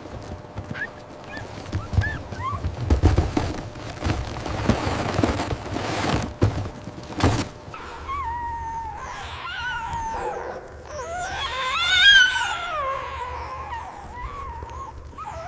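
Dog whining in long, wavering high-pitched whines that rise and fall, a sign of her anxiety; before that, a stretch of rustling and knocks.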